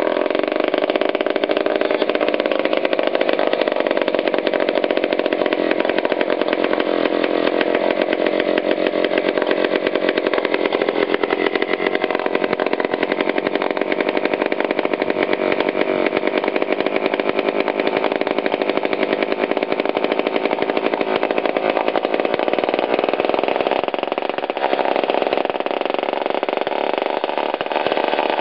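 Power Products Model 1000 aluminum two-stroke stationary engine running steadily at speed with no muffler, a loud rapid exhaust buzz.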